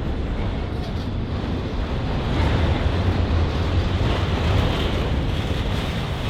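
Freight train rolling past with a steady low rumble and wind buffeting the microphone.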